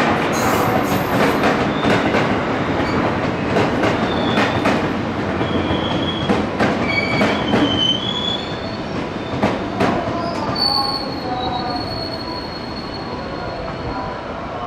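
Train moving slowly through a station platform, its wheels and brakes squealing in short high tones with clicks over the rail joints; a thin steady high tone holds from about ten seconds in as the sound slowly dies down.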